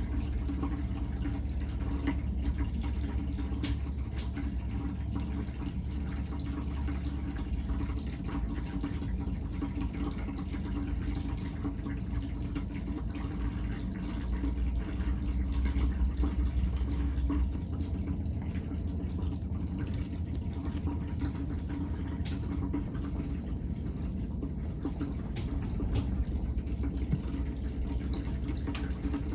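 Automatic pet water fountain running: a steady low pump hum with water trickling and dripping.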